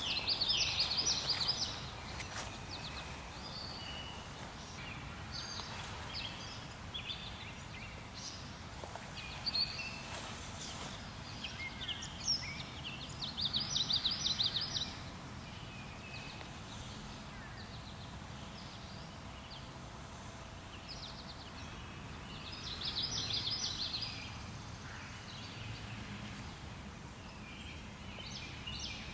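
Wild songbirds calling, with several bursts of rapid high-pitched trilled notes and scattered chirps, over a steady low background rumble.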